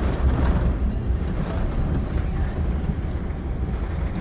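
Steady low rumble inside a moving car, with the hiss of rain on the car.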